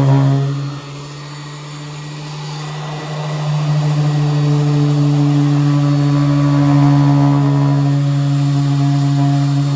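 Power sander running against the car's sheet-metal body to grind off rust, with a steady fixed-pitch hum. It drops in loudness just under a second in, then builds back up over the next couple of seconds and holds steady.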